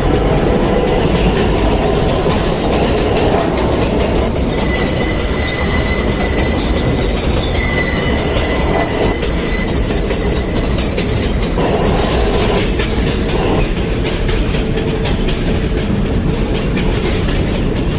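New York City Subway L train heard from inside the car while running between stations: a steady rumble of wheels on the rails, with a thin high squeal holding from about four to ten seconds in.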